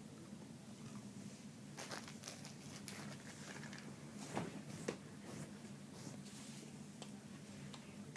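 Faint sounds of someone eating a packaged cracker snack: soft clicks and crinkling of the plastic packaging, with a few louder crackles about 2 s and 4 to 5 s in, over a low steady hum.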